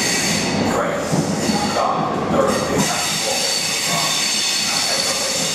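Passenger train coaches passing close by at speed: a steady rush of wheels on rail with a high, thin whine held above it.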